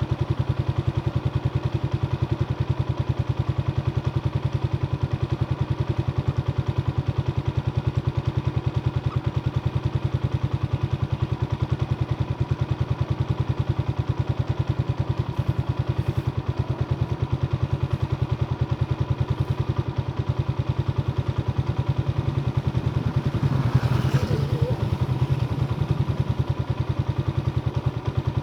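Motorstar Star X 125 motorcycle engine running steadily at an even, unchanging speed with a regular pulsing beat. A brief extra clatter or noise comes about four seconds before the end.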